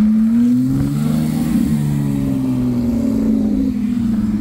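A car engine revving: its pitch rises about half a second in, then falls slowly over the next few seconds.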